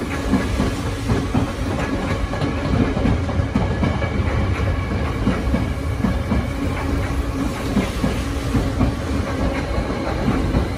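A Tokyo Metro Tozai Line electric train runs past on the elevated track, its wheels clattering over the rails under a steady rumble. A thin high squeal from the wheels sets in near the end.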